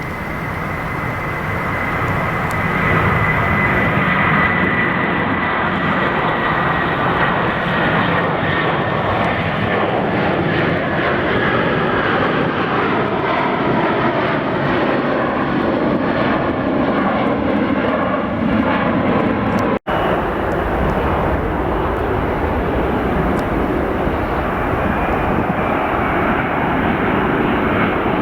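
Large jet airliner's engines passing low overhead on landing approach: a loud steady roar that swells over the first few seconds, with a high engine whine slowly falling in pitch as it goes by. About two-thirds of the way through, the sound cuts out for an instant and another jet's roar continues.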